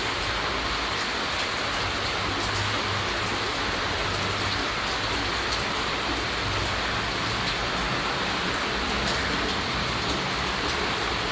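Steady rainfall: an even hiss of rain with many scattered, sharp drop ticks.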